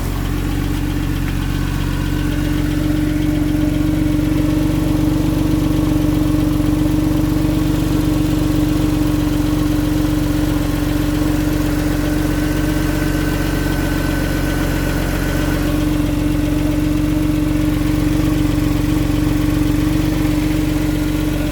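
Porsche 911 flat-six engine idling steadily a minute or so after a cold start.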